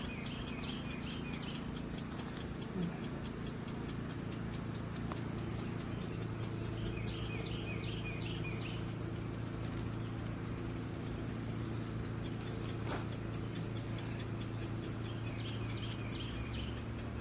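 Honeybees buzzing steadily around an opened hive, a low hum, while a bird repeats a short chirping phrase three times: at the start, in the middle and near the end.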